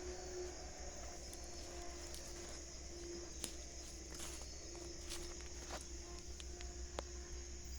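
Night insect chorus: a steady high-pitched shrill over a lower wavering drone, with a few short clicks or rustles scattered through.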